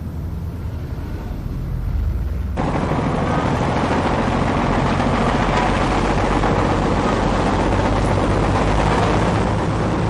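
A low engine rumble, then, after an abrupt change about two and a half seconds in, a louder engine running steadily with a clattering, rattling noise over it.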